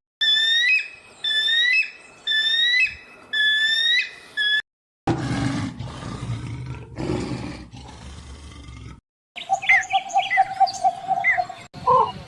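A string of different animal calls, one after another: five repeated high calls that each sweep upward, then a low, rough, roar-like sound lasting about four seconds, then quick chirping over a steady tone near the end.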